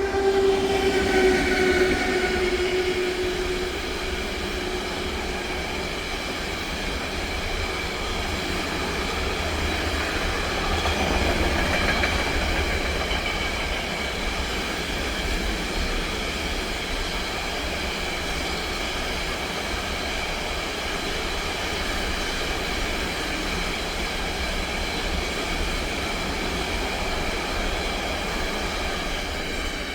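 A train passing at speed: the tail of its horn fades and falls slightly in pitch over the first few seconds, then the wheels rumble past steadily for nearly half a minute.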